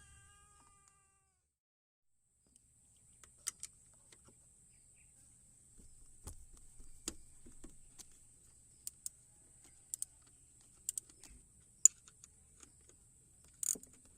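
Scattered sharp clicks and knocks at irregular intervals over a faint steady hiss and low hum, after a short pitched sound in the first second.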